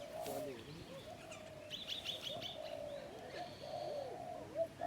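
Birds calling: many short, overlapping low calls that rise and fall throughout, with a quick run of high chirps about two seconds in.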